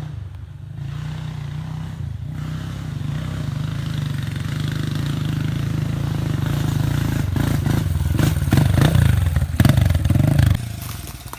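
Pit bike engine running, growing steadily louder, with the pitch wavering as the throttle is worked near the end before the sound drops away suddenly about ten and a half seconds in.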